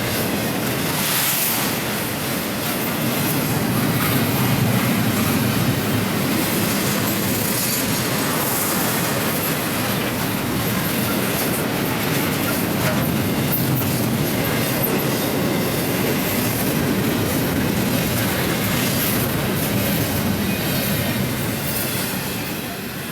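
A train running on the track: a steady rumble of wheels on rail that eases off near the end.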